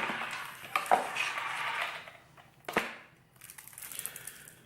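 Packaging rustling and crinkling as an item is pulled out of a cardboard box, with a few sharp clicks and knocks. The handling is loudest in the first couple of seconds and then quieter.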